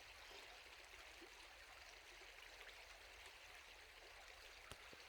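Near silence: the faint, steady rush of a stream, with one soft click near the end.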